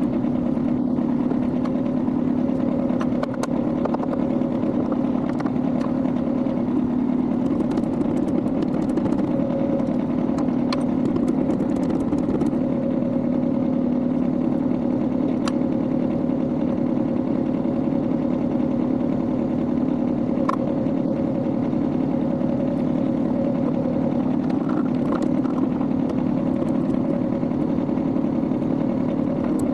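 Kubota B21 tractor's engine running steadily with an even hum. Faint sharp clicks sound now and then over it, mostly in the first half.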